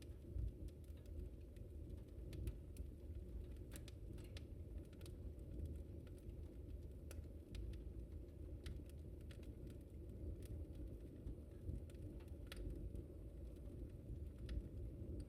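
Fireplace fire crackling: irregular sharp pops and snaps, a few each second, over a low steady rumble of the flames.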